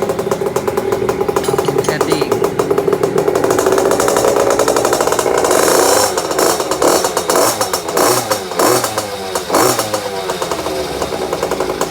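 Small 50cc two-stroke mini trail bike engine running with a rapid, buzzy beat. In the second half it is revved several times, its pitch rising and falling with each blip of the throttle.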